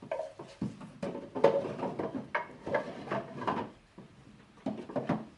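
Small wooden drawers of a hand-made wooden drawer cabinet sliding and knocking in their openings: a run of irregular wooden knocks and scrapes, with a short lull about four seconds in.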